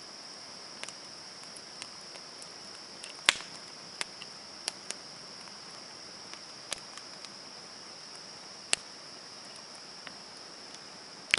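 A small wood campfire crackling, with irregular sharp pops, the two loudest about three seconds and nine seconds in. Behind it runs the steady high chirring of night insects.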